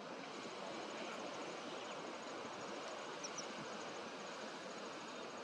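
Nature ambience: a steady hiss with insects chirping in rapid high trills that come and go, and two short high chirps a little after three seconds in.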